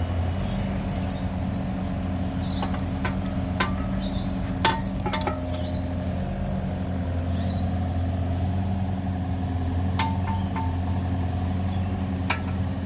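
Kubota excavator's diesel engine running steadily, with scattered sharp metallic clinks and knocks from work on the machine in two clusters, one a few seconds in and one near the end.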